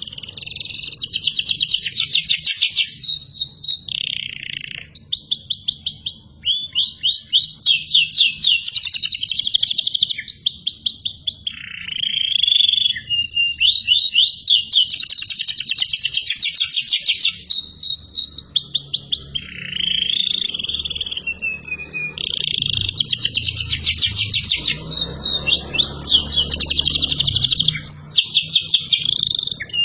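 Domestic canary in full song: long high-pitched phrases of rapid trills and repeated notes, each lasting a few seconds, with short pauses between them.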